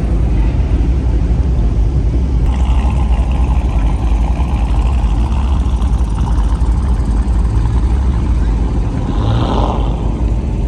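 Car engines running with a loud, steady low rumble, and a short higher-pitched sound near the end.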